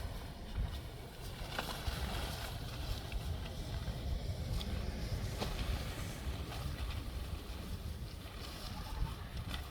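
Strong wind buffeting the microphone: a steady, gusting low rumble with a hiss over it and a few faint clicks.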